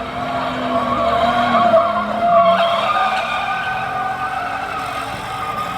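A car doing a burnout, its tires squealing with a steady, wavering screech over the engine, loudest about two seconds in.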